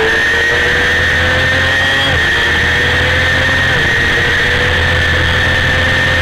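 1990 Honda CBR250RR's 250 cc inline-four racing engine at very high revs under full throttle, heard onboard over a steady rush of wind and road noise. The pitch climbs slowly, drops sharply about two seconds in, and drops again near four seconds in.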